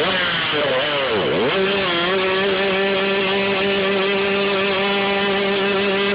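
A vehicle engine under way: its pitch drops sharply and climbs back about a second in, then it holds a steady high note at constant revs.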